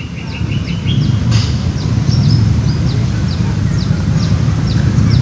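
A bird repeating short, high, falling call notes about three a second, over a loud, low, steady rumble that grows louder.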